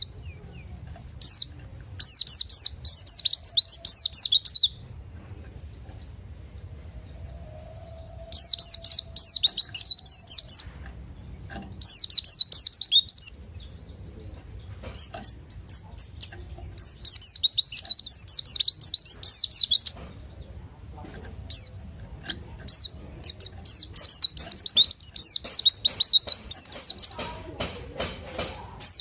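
A white-eye (pleci) singing in full voice: repeated phrases of rapid, high twittering notes, each phrase two to three seconds long, with short pauses and scattered single chips between them.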